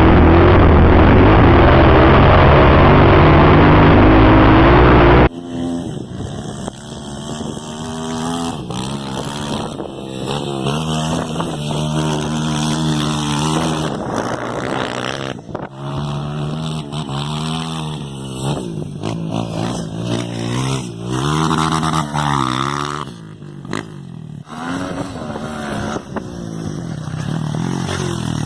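Motocross bike engines on a dirt track, revving up and down, the pitch rising with each acceleration and dropping at each gear change or roll-off. For the first five seconds a much louder, closer engine runs hard, then cuts off suddenly.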